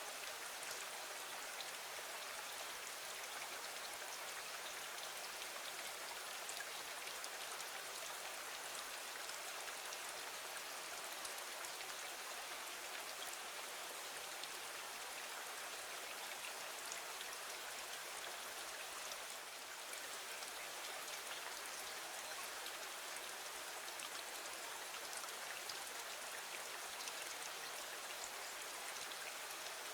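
Steady rain falling against a window: an even hiss dotted with many small drop ticks.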